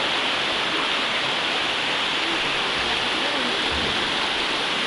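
Steady rush of a mountain river running over rocks, an even hiss of water with no change in level.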